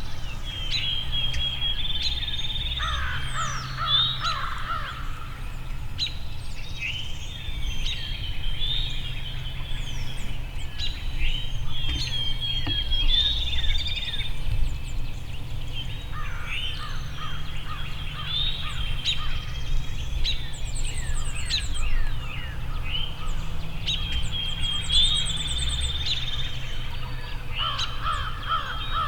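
Songbirds singing in woodland, with three bursts of rapid, rough calls about 3, 16 and 28 seconds in, over a steady low rumble.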